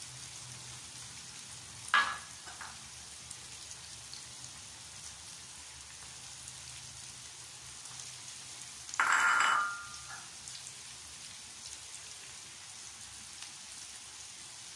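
Carrots, onion and tomatoes frying in oil in a pan, giving a steady sizzle. A sharp knock comes about two seconds in, and a louder clatter with a brief ring around nine seconds in.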